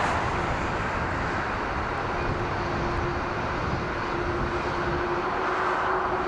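Jet airliner engine noise, a steady rush; a faint steady hum joins about two seconds in.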